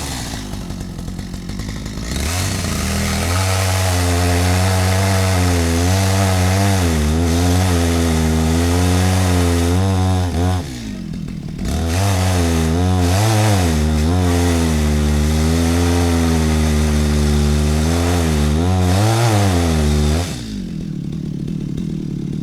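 Stihl MS 250 two-stroke chainsaw going from idle to full throttle for about eight seconds, dropping to idle for a moment, then running at full throttle again for about eight seconds before falling back to idle. While it is at full throttle the pitch wavers as the chain bites into the wood.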